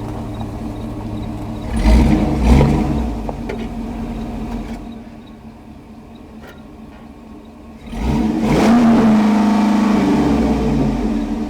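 2006 GMC Yukon Denali's 6.0-litre V8 being revved: two quick blips about two seconds in, a drop back to idle, then a rising rev held steady for about three seconds near the end before it falls off.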